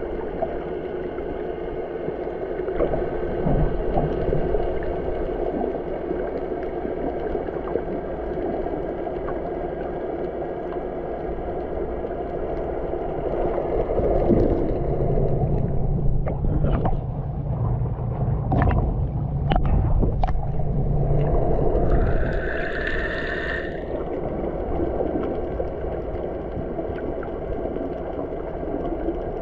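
Boat's motor running steadily under water sloshing and rushing past the hull, with a few knocks in the middle and a brief pitched tone that drops at its end about three quarters of the way through.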